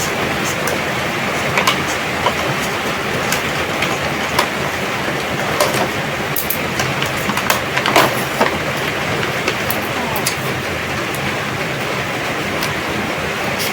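Scattered clicks and light taps of toy packaging and plastic parts being handled as a boxed toy truck is opened. The strongest click comes about 8 seconds in, over a steady hiss.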